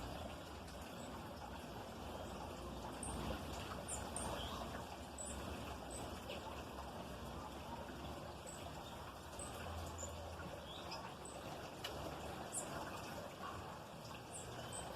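Small birds giving short, high chirps, scattered every second or so, over a steady background hiss.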